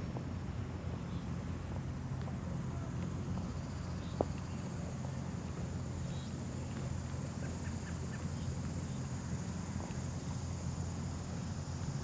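Steady outdoor ambience with a low hum underneath, a few faint short bird chirps, and one sharp click about four seconds in.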